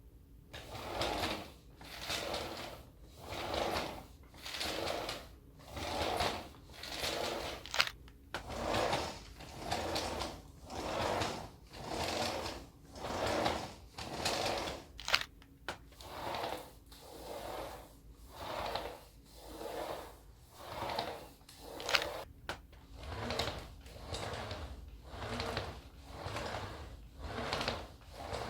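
Cordless vacuum cleaner floor heads with their brush rollers turning, pushed back and forth over a floor: a swishing noise that swells and fades about once a second over a faint steady hum, with a few brief breaks.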